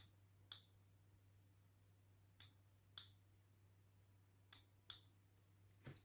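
Faint sharp clicks in three pairs, the two clicks of each pair about half a second apart, with a weaker click near the end, over a low steady hum.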